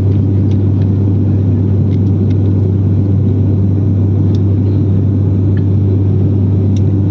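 Steady, loud low drone of a running vehicle, unchanging throughout, with a few faint ticks.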